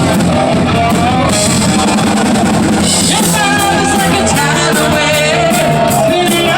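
Live rock band playing, with a singer, electric guitar and drum kit, loud and steady.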